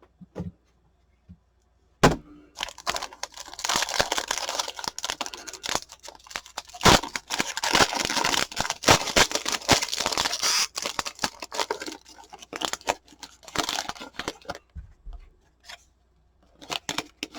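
Foil wrapper of a pack of trading cards being torn open and crinkled: one sharp rip about two seconds in, then about twelve seconds of continuous tearing and crackling, thinning to a few rustles near the end.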